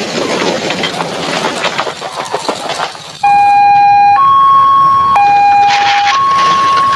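Rumbling, clattering vehicle noise, then about three seconds in a loud two-tone siren cuts in, switching between a lower and a higher tone roughly once a second: a cartoon police car's hi-lo siren.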